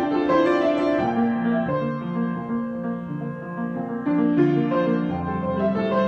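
Solo piano improvisation: chords and melody notes that soften for a couple of seconds in the middle, then swell again with low bass notes near the end.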